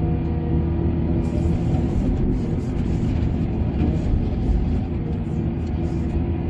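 Heavy diesel engine of mining machinery running steadily under load, a deep even rumble with a constant pitch.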